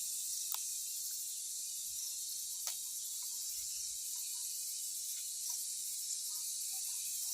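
Steady, high-pitched drone of insects chirring in the garden, with a few faint clicks and short faint chirps scattered through.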